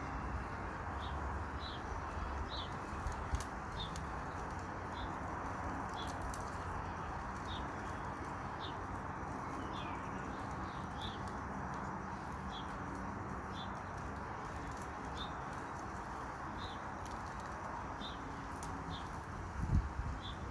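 A small bird chirping over and over, short high chirps about one to two a second, over a steady background hiss.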